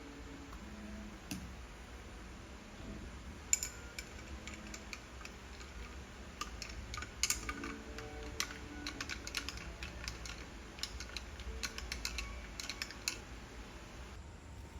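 Typing on a laptop keyboard: irregular runs of light key clicks starting about three and a half seconds in, thickest in the middle.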